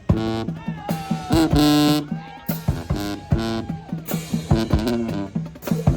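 High school marching band playing: brass notes, some held for a second or more, over repeated drum hits.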